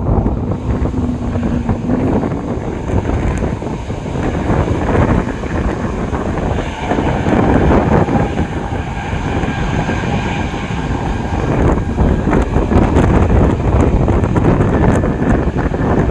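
Jet airliner engines at takeoff power: a steady heavy rumble, with a faint engine whine coming up in the middle. Wind buffets the microphone throughout.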